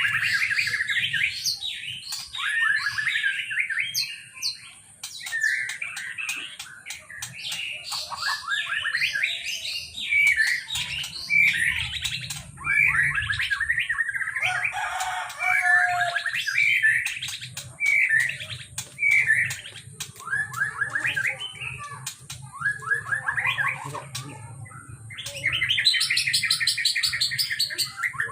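Murai songbird singing: a long run of chirping, warbling phrases with short pauses between them, over a faint steady low hum.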